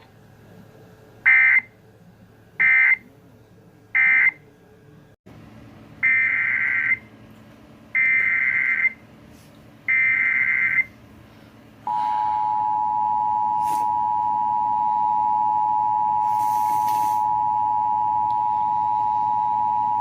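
Emergency Alert System data tones: three short bursts of the end-of-message code, then three longer bursts of the header for the next warning. The two-tone EAS attention signal follows, a steady dual-pitched tone held for about eight seconds.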